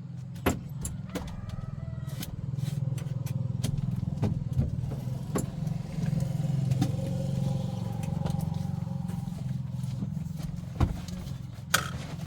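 Car engine running steadily at idle, with scattered sharp clicks and knocks over it.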